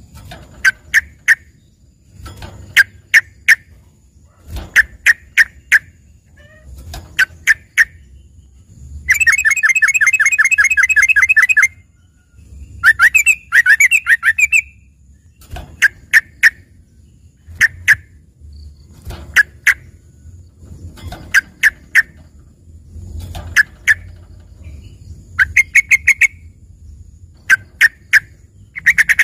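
A yellow-vented bulbul (trucukan) singing, its song filled in with greater green leafbird (cucak ijo)–style phrases: loud groups of two to four sharp chirps every second or two, broken about nine seconds in by a rapid trill lasting a couple of seconds and another dense burst a little later.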